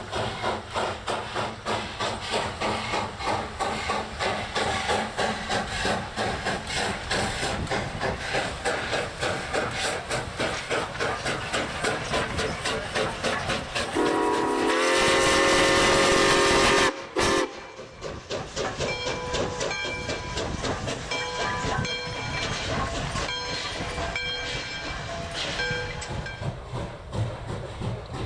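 Steam locomotive working, its exhaust beating in a steady rapid rhythm. Its steam whistle blows a loud chord for about three seconds past the middle and cuts off sharply. The exhaust beat then carries on more lightly.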